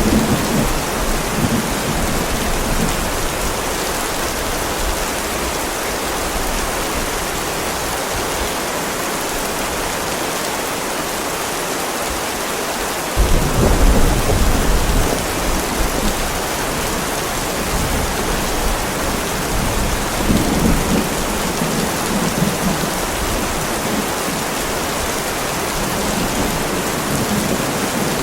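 Heavy rain falling steadily on a driveway, an even hiss, with low rolls of thunder; the strongest rumble breaks in suddenly about halfway through and lasts a couple of seconds, and fainter ones come near the start and later on.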